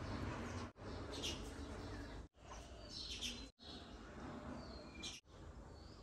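Birds chirping in short high calls, three times or so, over a steady background hiss. The sound cuts out completely for an instant four times.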